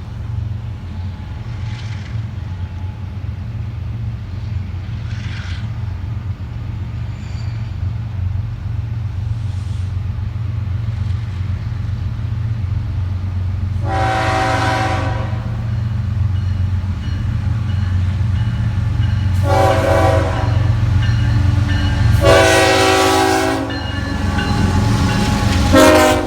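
Florida East Coast freight train approaching, its diesel locomotives rumbling steadily and growing louder. In the second half the locomotive's air horn sounds four blasts, the third the longest and the last one brief, as part of a horn show.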